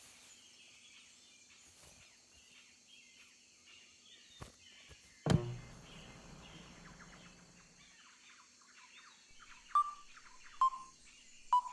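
Faint bird chirps in the background, a single knock about five seconds in, then three short beeps near the end.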